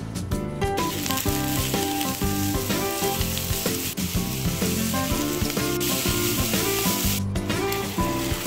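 Julienned carrots sizzling as they stir-fry in hot oil in a rectangular nonstick pan, starting about a second in, with a short break near the end. Background music plays under it.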